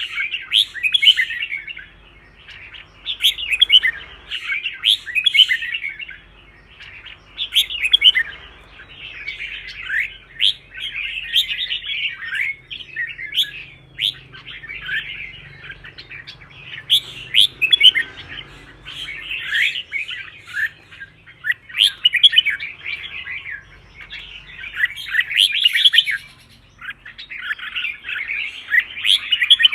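Red-whiskered bulbul singing: quick warbled phrases of one to two seconds, repeated about every two seconds with short pauses between.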